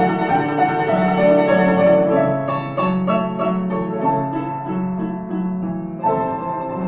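Solo piano playing a slow lyrical piece, a melody over repeated bass notes; it grows softer and then swells again about six seconds in.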